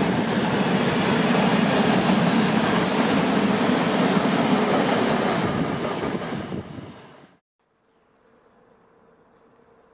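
Freight train of high-sided open wagons rolling past with steady wheel-on-rail noise, which fades and cuts off about seven seconds in, leaving a faint steady hum.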